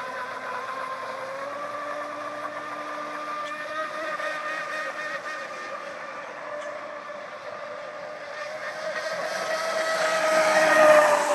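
Pro Boat Miss Geico RC catamaran's electric motor whining steadily at speed on a 4S lipo, over the hiss of the hull on the water. It grows louder over the last few seconds as the boat comes close, the whine dipping slightly in pitch near the end.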